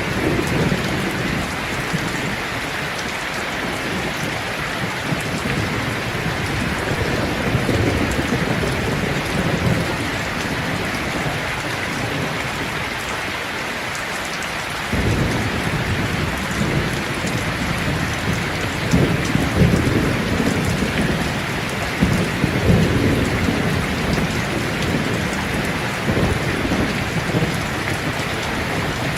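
Steady heavy rain hissing, with low thunder rumbling that swells and fades, drops away for a few seconds in the middle, and comes back abruptly about halfway through.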